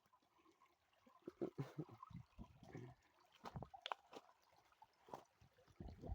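Faint water sounds: irregular small trickles and gurgles in short bursts, with a few light clicks.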